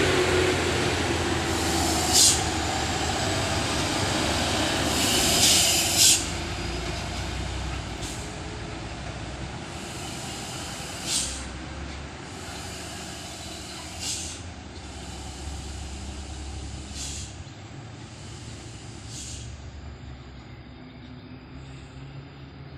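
Heavily loaded dump truck descending a steep grade, its air brakes hissing in short sharp bursts every two to three seconds, the longest one about five seconds in, over a low engine rumble that fades away.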